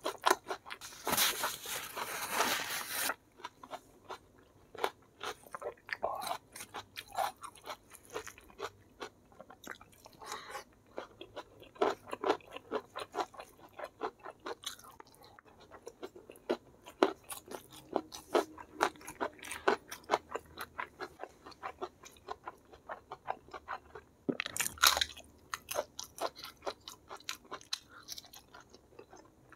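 Close-up eating sounds: a person chewing and crunching crispy fried food and rice, a steady run of crackling crunches and wet mouth clicks. A loud, dense stretch of crunching comes about a second in and lasts about two seconds, and another short loud crunch comes near the end.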